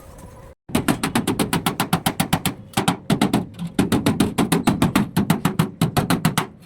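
Rapid run of sharp knocks or taps at about eight a second, going on for several seconds after a brief dropout near the start.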